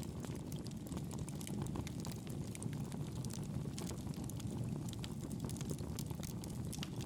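Campfire burning steadily: a low rumble of flames with many small, irregular crackles and pops from the burning wood.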